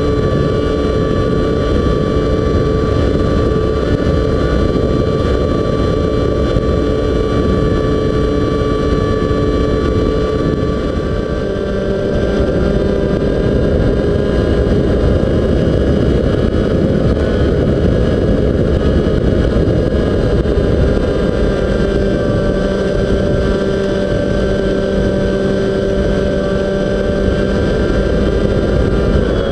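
Radio-controlled model plane's motor and propeller running steadily at a held throttle, a whine of several steady tones over heavy wind rush; the pitch shifts to a new steady note about eleven seconds in.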